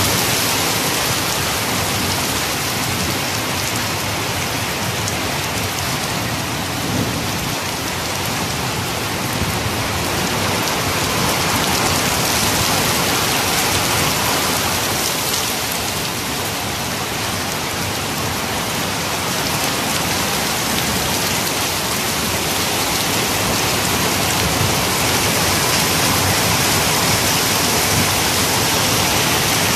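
Heavy rain pouring steadily onto a flat concrete rooftop, a dense unbroken hiss of splashing drops that grows a little louder toward the end.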